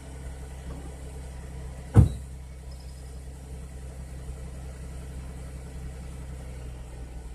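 2009 Chevrolet Traverse LS's 3.6-litre V6 idling steadily, heard at the exhaust and running smoothly. A single sharp thump about two seconds in is the loudest thing.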